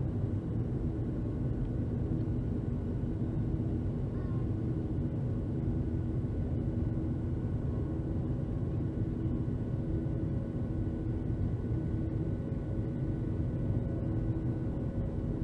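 Jet engines of a Southwest Airlines Boeing 737 running steadily during departure, heard inside the passenger cabin: a low rumble with several constant humming tones over it.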